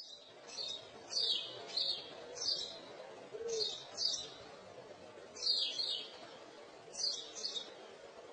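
Birds chirping: short, high chirps coming in pairs and small clusters every second or so, over a faint steady hum.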